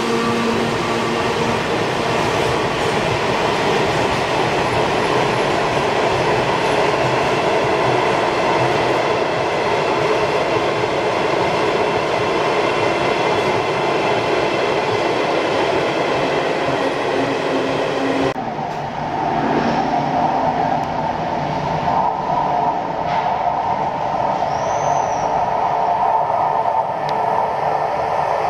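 Taiwan Railways train passing on the rails, a steady loud rumble of wheels and cars. About two-thirds of the way through, the sound changes abruptly and loses its high hiss.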